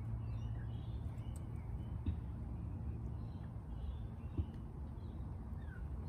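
Birds calling in short, scattered chirps over a steady low background rumble, with a few faint clicks.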